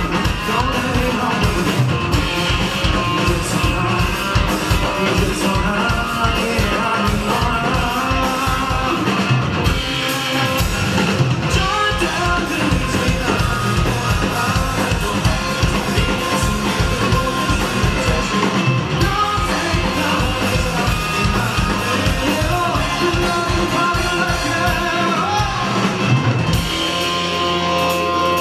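Rock band playing live, with a steady drum beat, electric guitars and a singer. Near the end the drums drop out and a held chord rings on.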